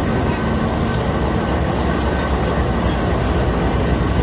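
Steady rumble of a passenger train running along the track, even and unbroken, with a few faint ticks.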